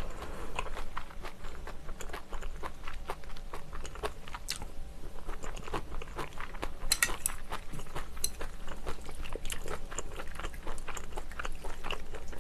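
Close-miked chewing of a mouthful of rice, braised kimchi and Iberico pork: a steady run of soft, wet mouth clicks and smacks, with a couple of sharper clicks about four and a half and seven seconds in.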